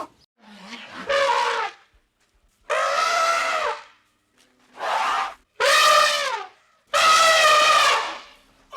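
Elephant trumpeting: five calls in a row, each about a second long, with short pauses between.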